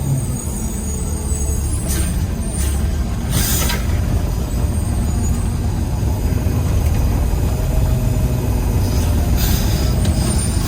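Peterbilt 320 garbage truck's engine running steadily, heard from inside the cab, with a few short hisses of air, about two, three and nine seconds in.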